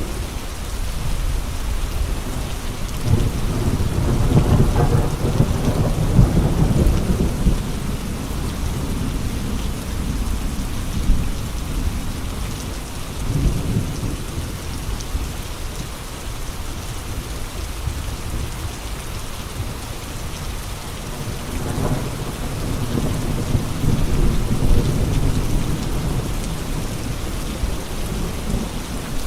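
Steady rain with gusting wind. Two long low swells come through, one a few seconds in and one in the latter part.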